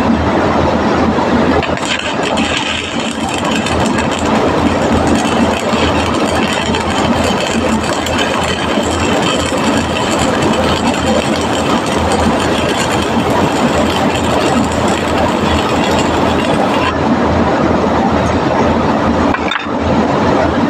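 Arc welding in a factory: a loud, steady crackling buzz over an electrical hum, with a brief break near the end.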